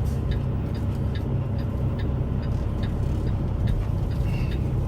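Semi truck's diesel engine idling steadily, heard from inside the cab as the tractor eases back under a trailer, with a light ticking repeating about two to three times a second.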